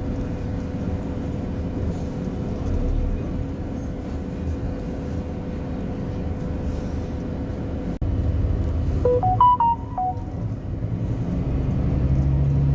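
Scania-engined Alexander Dennis Enviro300 bus running with a steady low engine drone, growing louder after about eight seconds. About nine seconds in, a quick run of short electronic beeps at several pitches sounds over it.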